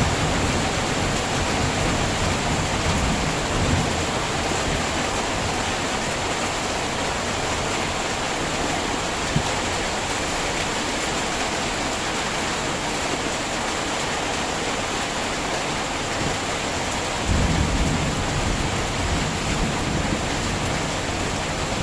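Heavy rain falling steadily, a constant hiss. A low rumble rises under it about three-quarters of the way through and lasts a few seconds.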